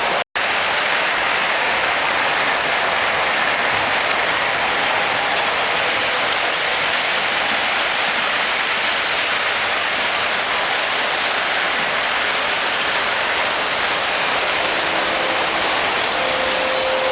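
Miniature trains running on their track, a steady rushing, hiss-like rolling noise. There is a brief dropout just after the start.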